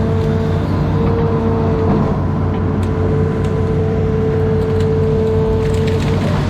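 Amphibious excavator's diesel engine running steadily under load, with a steady high whine over the low drone that breaks off briefly about a second in and again near the end.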